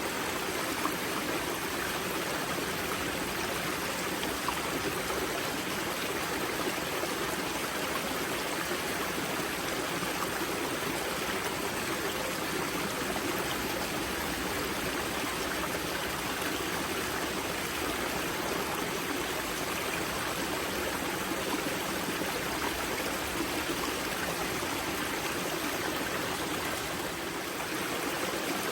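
Steady rushing and gurgling of water at the wellhead of the river Grza, where the spring flows out as a mountain stream.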